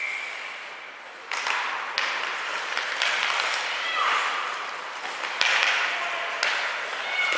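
Spectators in a hockey rink clapping and cheering, with a shout and a few sharp knocks cutting through.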